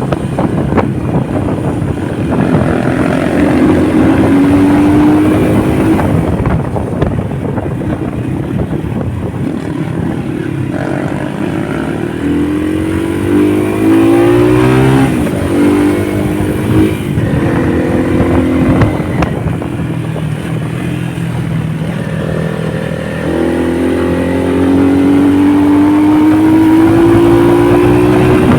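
Honda motorcycle engine running under way, its pitch climbing in three long rises and dropping back between them as the bike accelerates through the gears.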